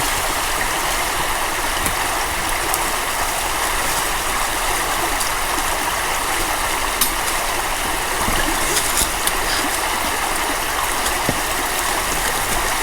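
Steady rushing of a creek's flowing water and falls, even and unbroken, with a few faint clicks over it.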